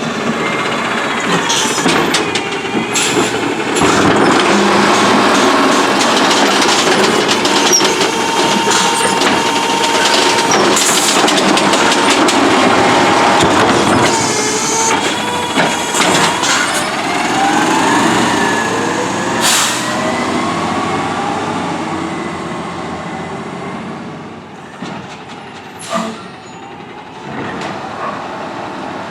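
Autocar ACX CNG automated side-loader garbage truck at work: engine and hydraulic whine rising and falling in pitch as the arm and packer run, with several short air-brake hisses. It turns quieter in the last few seconds.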